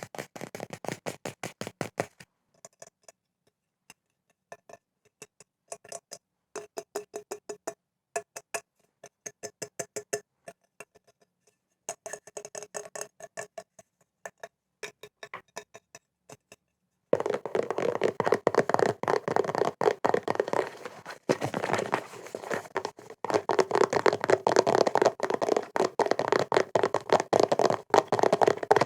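Fingers tapping quickly on objects for ASMR. The taps come in short, scattered runs with quiet gaps, then from a little past halfway turn into a louder, continuous flurry of rapid taps with a slight ringing tone.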